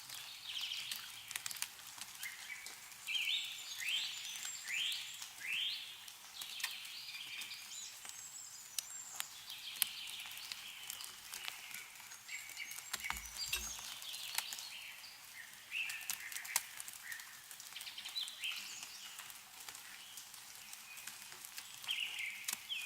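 Birds chirping and calling, with a run of quick rising chirps a few seconds in, over scattered ticks of meltwater dripping from snow-covered trees.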